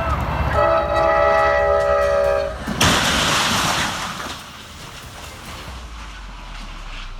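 Train horn blowing for about two seconds, then a sudden loud crash as the train strikes a vehicle, with noise fading out over the next second or two.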